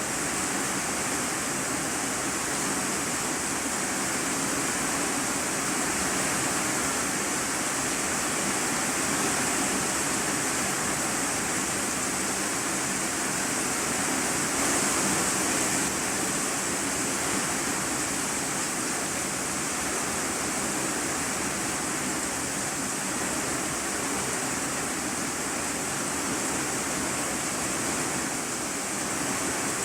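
Heavy rain drumming steadily on a corrugated iron-sheet roof, heard from the room beneath as a dense, even hiss.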